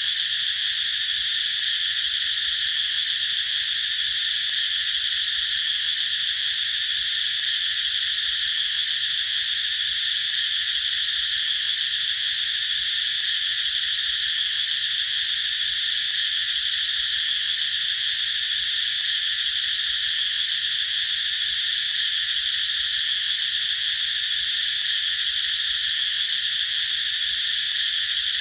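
Cicadas singing in a steady, unbroken chorus: a continuous high-pitched buzz with no pauses.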